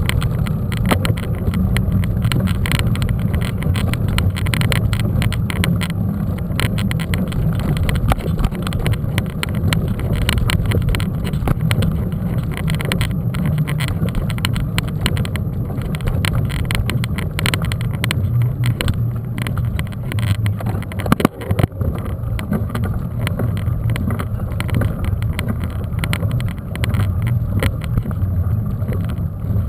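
Mountain bike riding over a rough dirt trail: a steady rumble of wind and tyre noise with many quick rattles and knocks from the bike.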